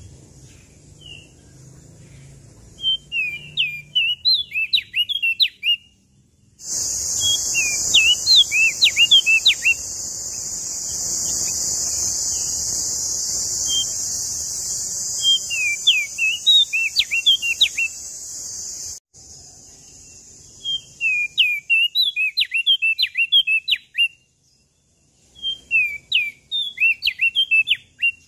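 Prenjak daun songbird singing short phrases of rapid, sharply gliding high chirps, about six phrases with short pauses between. A loud steady high hiss runs underneath from about seven seconds in and cuts off abruptly at about nineteen seconds.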